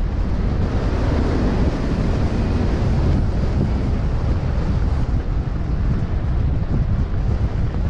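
Wind buffeting the microphone: a steady, loud rush with a heavy low rumble and no breaks.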